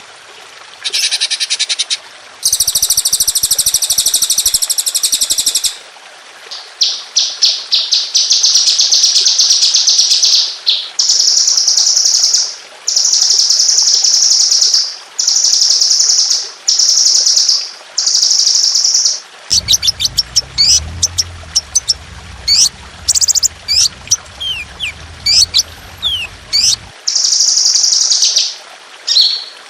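Caged songbird song of the kind used as training material: loud, high-pitched rapid trills in repeated bursts of one to three seconds, with a run of sharp downward-slurred whistles about two-thirds of the way through. A faint low hum sits under the middle part.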